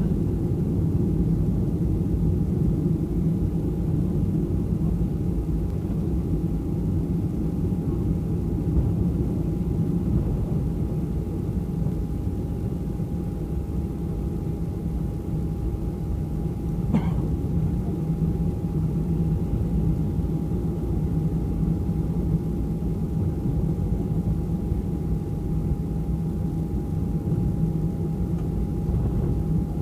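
Cabin noise inside a Boeing 737 taxiing: a steady low rumble from the idling jet engines and the rolling airframe, with a thin steady whine over it. A single brief click about halfway through.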